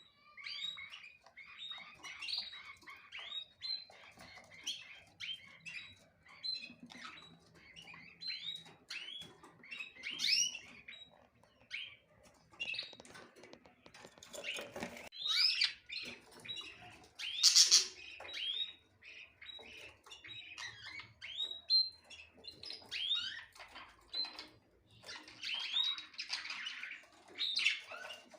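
Small birds chirping continuously, many short, quick calls overlapping one another, with a louder harsh burst about seventeen seconds in.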